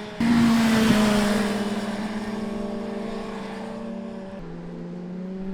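Superbike engine heard onboard with wind rush. The engine comes on sharply just after the start and holds a steady pitch. About four seconds in the pitch steps down, then rises steadily as the bike accelerates.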